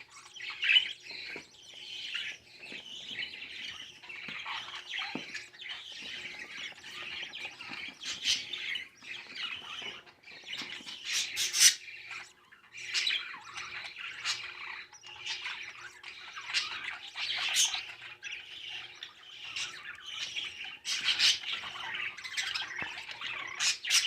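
Budgerigar chick in the nest begging with near-continuous raspy squawks and chirps while its father feeds it, with a few louder squawks along the way.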